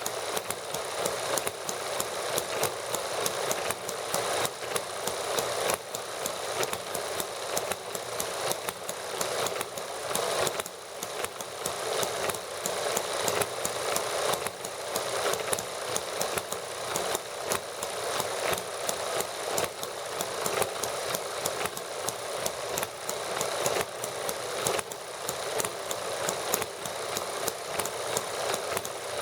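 Several small model gasoline engines running steadily. Their firing comes as a fast, even rattle of clicks.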